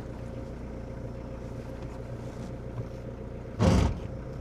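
Motorhome engine idling steadily with a low hum. A brief loud bump breaks in about three and a half seconds in.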